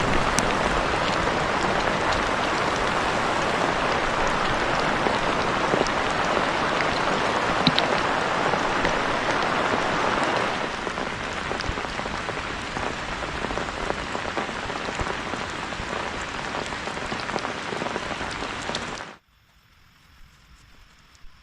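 Heavy rain falling and pattering on surfaces, a dense steady hiss with occasional sharper drops. It eases slightly about halfway, then stops abruptly near the end.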